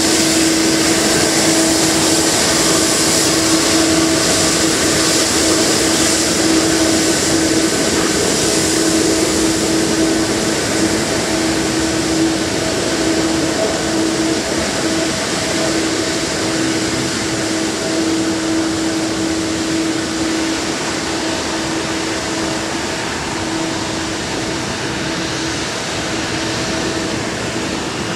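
Cabin noise inside a Boeing 777-300 airliner: a steady rush of engine and airflow noise with a constant hum, easing off slightly toward the end.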